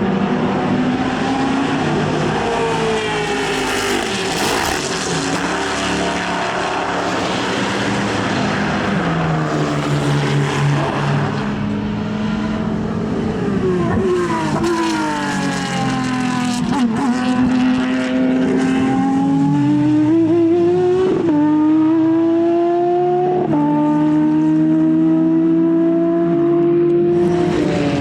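Racing car engines running at speed on track, the revs rising and falling through gear changes. One car passes close about halfway through, and later a car pulls away, its pitch stepping sharply twice as it changes gear.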